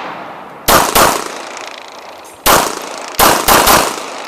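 Pistol shots: a quick pair about a second in, a single shot near the middle, then three in quick succession near the end, each with a short echo.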